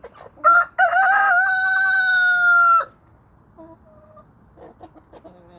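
A rooster crows once, a loud call held at a steady pitch for about two seconds that breaks off sharply, followed by a few soft clucks from the flock.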